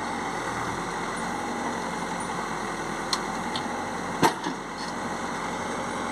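Heavy diesel engine running steadily, with one sharp knock about four seconds in and a couple of lighter clicks just before it.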